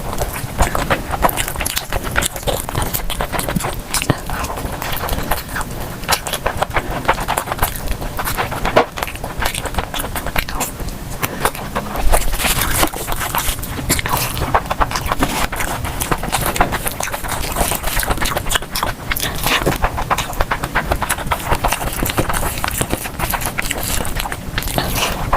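Close-miked eating sounds: steady chewing with wet mouth clicks and lip smacking.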